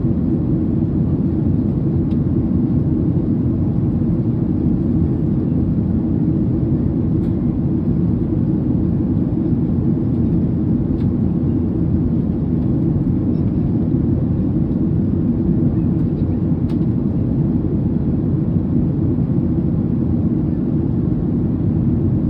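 Steady cabin noise of a Boeing 737 in flight: an even rumble of engines and airflow heard from a window seat inside the cabin, with a few faint clicks.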